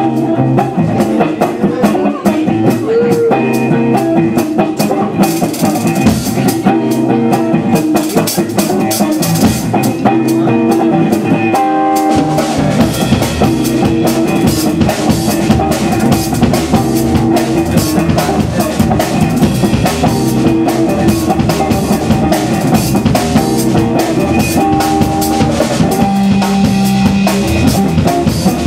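Live blues band playing, with guitar and a drum kit keeping a steady beat; about twelve seconds in, the bass fills in and the band plays fuller.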